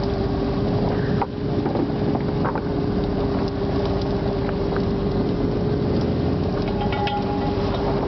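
Fishing boat's engine running steadily, a constant droning hum with a few light knocks on top.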